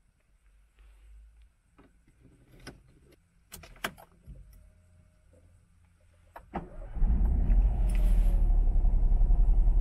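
Small clicks of a key going into an Opel car's ignition and being turned, then about seven seconds in the engine starts and runs steadily, heard from inside the cabin.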